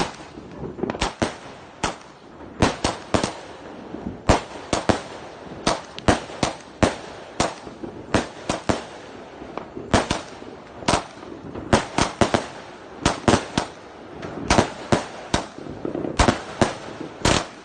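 Multi-shot fireworks cake firing: a rapid, irregular string of sharp bangs, about two or three a second, some in quick pairs.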